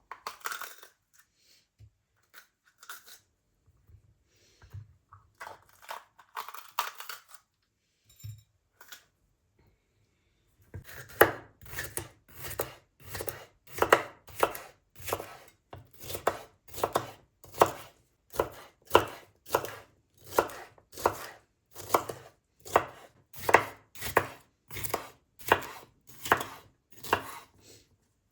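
A knife chopping on a cutting board in a steady rhythm of about two strokes a second, starting about eleven seconds in, after some scattered kitchen handling sounds.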